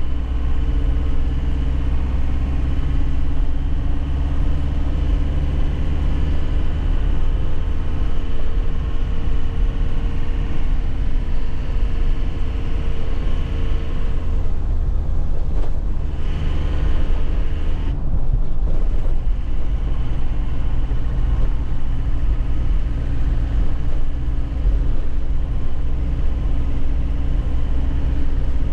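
2001 Nissan Cabstar light truck's diesel engine running under way. About halfway through, the engine note drops away for a few seconds with short breaks, as in a manual gear change, then picks up again.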